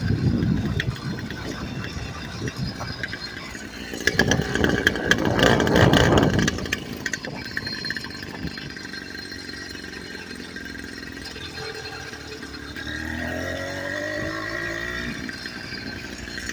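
Custom-built motorbike with a new exhaust out on a ride, its engine swelling louder about four seconds in, then easing off. Near the end the engine note rises as it revs up and holds.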